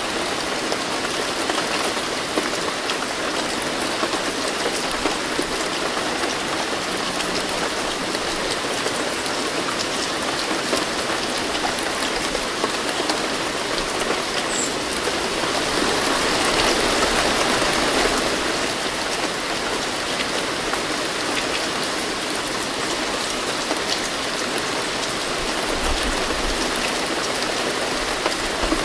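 Steady rain falling, with a dense patter of drops on a surface; it swells briefly a little past halfway through.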